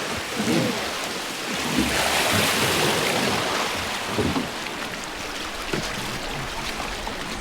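Rushing river water around a river boat, a steady hiss of water that swells about two seconds in.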